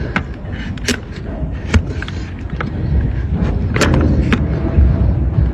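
Sharp, irregular cracks and knocks of hoof-trimming tools cutting into a donkey's hard hoof, about seven strikes, over a low rumble that grows louder toward the end.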